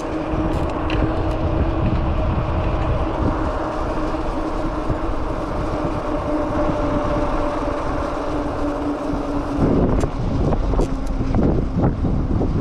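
Steady whine from the Cyrusher XF900 e-bike's 750 W Bafang motor over constant wind rumble on the microphone and fat-tyre road noise. The whine stops about ten seconds in, and gusty, uneven wind noise follows.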